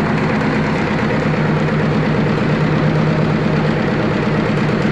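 Overhauled AVZ-180 rotary plunger vacuum pump running on a test bench, a steady machine run with a fast, even pulsing beat.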